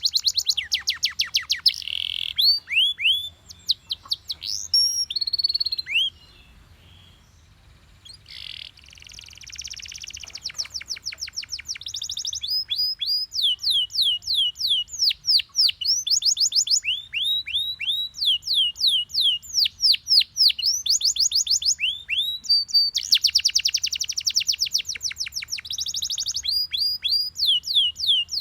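Yellow Belgian canary singing: fast rolling trills of repeated downward-sweeping notes, with a brief pause about six seconds in.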